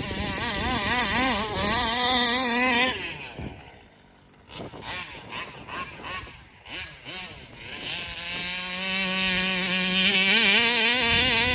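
Large-scale gas RC car's 35 cc reed-valve two-stroke engine running hard at high revs, its pitch wavering, then backing off about three seconds in. A few short throttle blips follow, then a longer steady wide-open run near the end.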